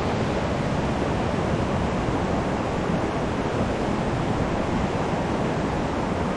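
Small mountain stream running, a steady, even rush of water with no breaks.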